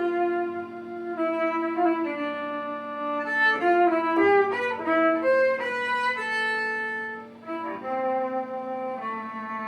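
Fiddle playing a slow melody of held notes over a steady low drone note.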